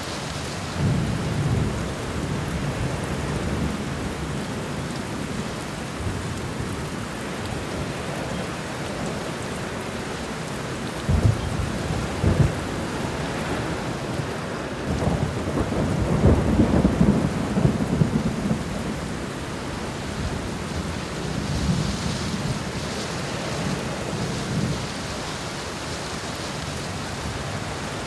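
Thunderstorm: steady heavy rain with rolling thunder. Two sharp cracks come about eleven and twelve seconds in, and the loudest long rumble follows a few seconds later.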